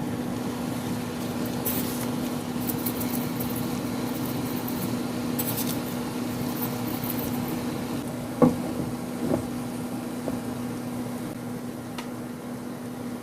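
Kitchen cooking sounds under a steady electrical hum from a fan, with two short stretches of hissing from the pan and a sharp knock of a utensil or pot about eight seconds in, followed by a few lighter clicks.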